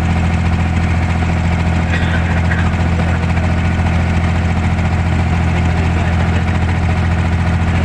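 Boat engine running at a steady, even speed, a loud low hum with no change in pitch.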